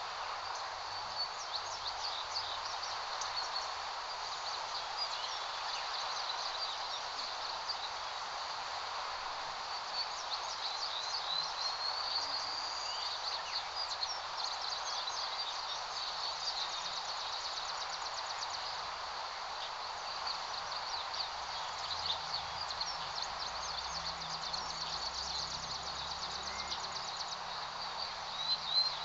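Small birds chirping and twittering in short high calls again and again, over a steady hiss of breeze rustling through grass.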